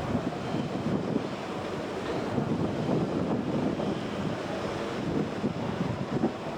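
Water rushing and churning beside a tugboat, with wind buffeting the microphone: a steady rough noise with no clear engine tone.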